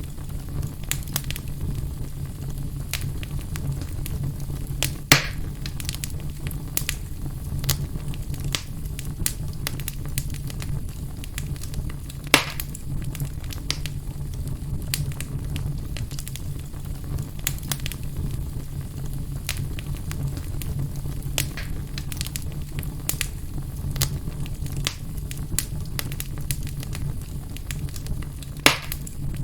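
Wood fire burning in a fireplace: a steady low rumble of flames with frequent small crackles and a few louder pops, about 5, 12 and 29 seconds in.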